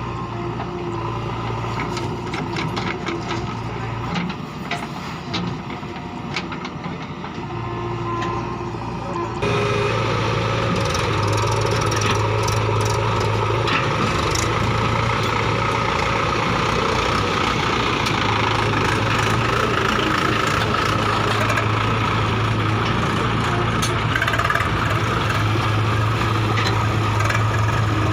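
Heavy diesel engines running steadily at a working site, with scattered clicks and knocks; the sound steps up abruptly and grows louder about nine seconds in, then holds steady.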